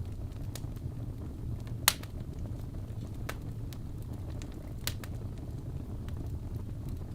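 Logs burning in a fireplace: a steady low rumble of flame with occasional sharp pops and crackles. The loudest pop comes about two seconds in, and another near five seconds.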